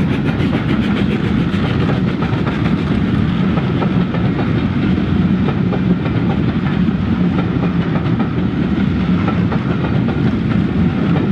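Model train running along the layout track: a steady motor and wheel hum with rapid clicking of wheels over the rail joints.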